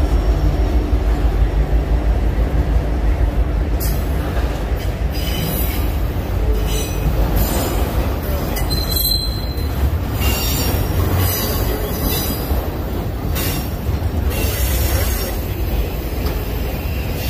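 Freight train rolling past: the trailing diesel locomotive's engine hum fades in the first second, then a line of autorack cars goes by with a steady rumble of wheels on rail. From about four seconds in come intermittent high squeals and screeches of wheel flanges.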